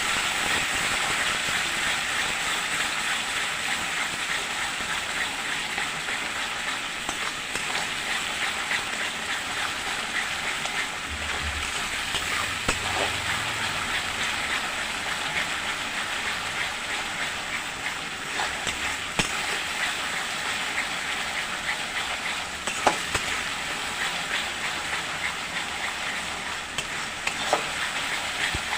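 Spice masala with sour yogurt sizzling steadily in a hot kadai, crackling, with a few sharp knocks of a spatula against the pan as it is stirred.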